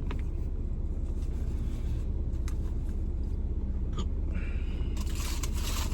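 Steady low rumble of an idling car heard inside its cabin, with a few small clicks and, from about four seconds in, a rustling of food packaging being handled.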